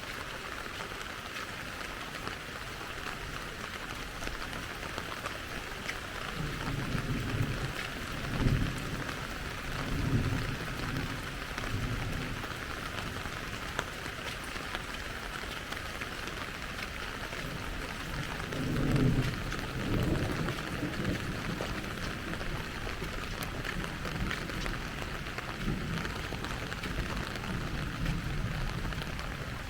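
Steady rain falling, an even hiss throughout. Low rumbles swell and fade twice, for several seconds each, about six seconds in and again about eighteen seconds in, with a weaker one near the end.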